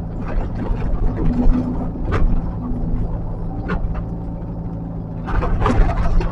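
Heavy earthmoving machine's diesel engine running steadily, with short scraping or knocking noises about two seconds in and near four seconds, and a louder burst of them near the end.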